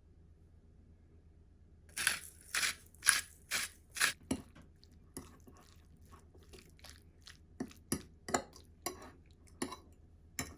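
A utensil clinking and scraping against a bowl as chicken salad is mixed. About two seconds in comes a quick run of sharp strikes, followed by lighter, scattered taps.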